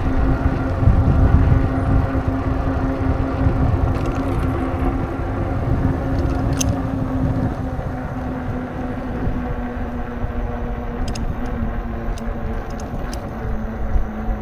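A motor vehicle running steadily with a low rumble. Its hum drops slightly in pitch partway through, and a few light clicks come in the second half.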